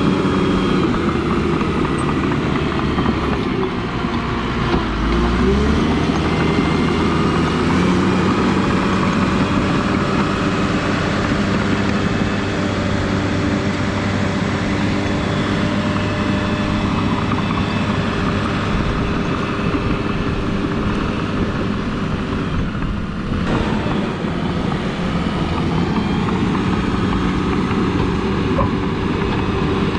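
A vehicle engine running steadily, its pitch dipping and rising again about five seconds in.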